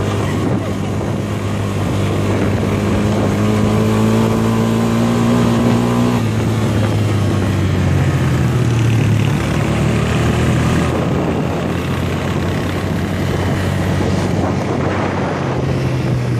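ATV engine running while riding, its pitch climbing steadily for a few seconds, then dropping suddenly about six seconds in and settling into a lower, shifting drone.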